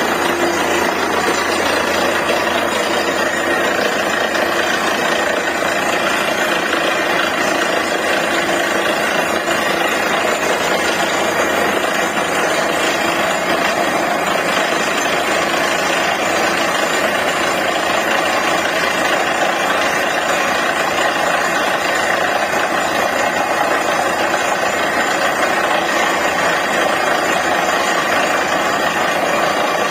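Borewell drilling rig running steadily at a loud, even level: a dense mechanical din that does not change.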